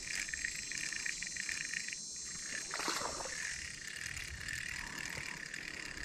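Steady chorus of insects and frogs, with a brief splash of water about three seconds in as a small hooked largemouth bass is brought in.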